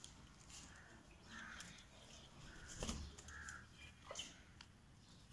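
Faint bird calls: a few short calls spaced through, with a couple of light clicks in between.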